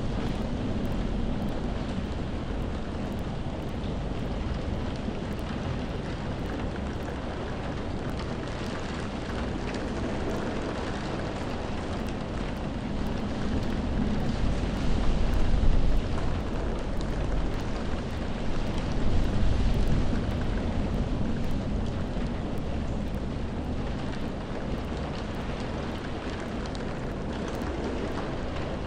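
Steady rain falling, an even wash of noise, with deep low rumbles swelling up twice, about halfway through and again a few seconds later.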